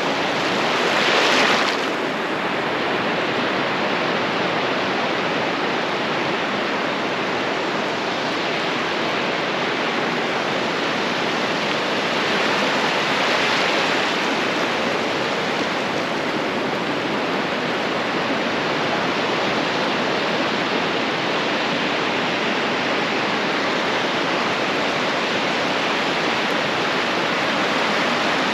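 Ocean surf on a beach: a steady rush of water, with waves breaking louder about a second in and again near the middle.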